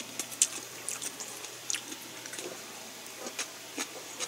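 A person chewing food with the mouth closed, close to the microphone: irregular small wet clicks and smacks.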